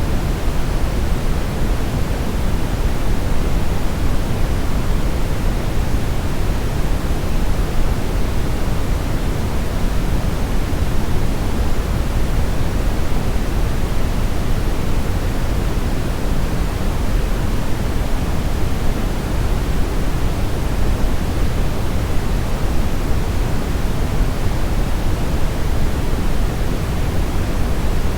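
Steady brown noise: an even, unchanging deep hiss weighted toward the bass, with no tones or events.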